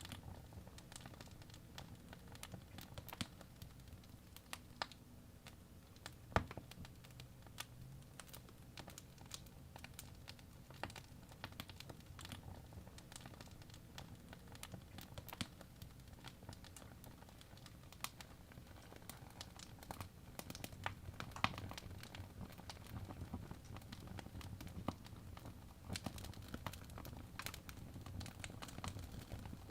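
Birch logs burning in a fireplace, crackling with irregular sharp pops over a low steady rumble of the flames. The loudest pops come about six seconds in and about twenty-one seconds in.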